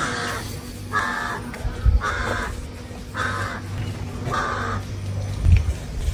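A bird giving five harsh calls, evenly spaced about a second apart, over a steady low hum.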